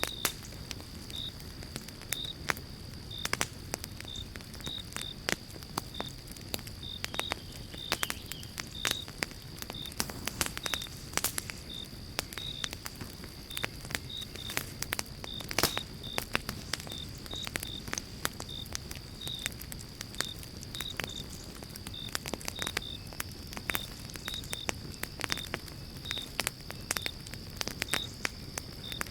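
Campfire of burning pine logs crackling, with frequent sharp pops. Behind it runs a steady high whine, with short high chirps repeating about twice a second.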